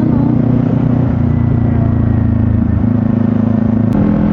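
Kawasaki Z500 motorcycle engine running steadily while riding, its pitch stepping up slightly near the end.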